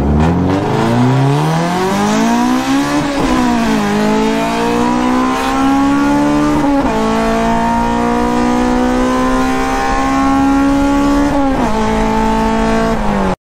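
A 1993 Honda Civic Si's four-cylinder engine pulling hard under acceleration, heard from inside the gutted cabin. Its pitch climbs through the revs and drops at each of three upshifts before settling into a steady drone.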